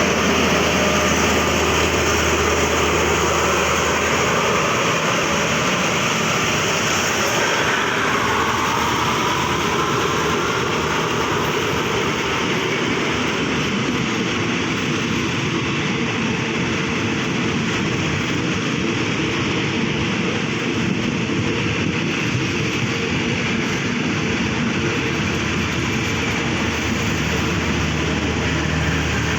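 Express passenger train on the move: a steady rush and rumble of wheels on rails. A low engine hum fades after the first few seconds, and a faint rising whine comes in about eight seconds in.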